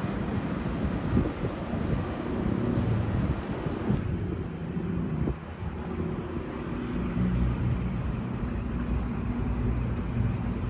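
Street traffic ambience: motor vehicle engines running with a low rumble and steady engine tones. The sound changes abruptly about four seconds in.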